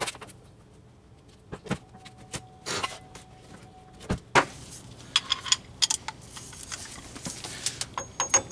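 Metal hand tools being handled, clinking and knocking: scattered clicks, a sharp knock about four seconds in, then a run of small ringing metallic clinks.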